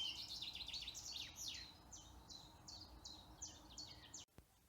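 A songbird singing: a quick run of varied notes and downward sweeping whistles, then a series of repeated high whistled notes at about three a second. The song cuts off suddenly a little after four seconds.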